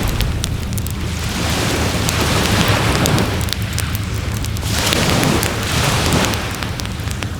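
Waves washing up on a beach in repeated surges a couple of seconds apart, over a steady low rumble of surf, with a wood bonfire crackling in sharp little pops.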